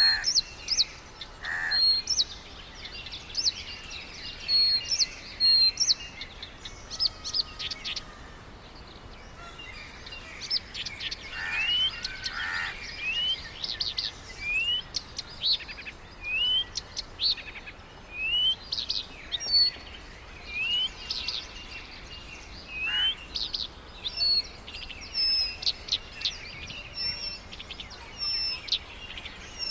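Several birds calling and singing together: short high chirps and trills throughout, with a run of quick rising whistles repeated about once a second through the middle stretch.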